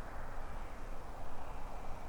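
Wind blowing across the microphone: an uneven rushing rumble with no clear tone.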